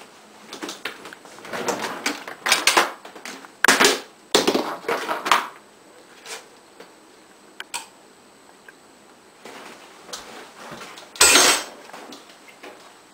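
Irregular clattering and rustling as packages and containers are moved about inside a freezer, busiest in the first few seconds, with one louder clatter near the end.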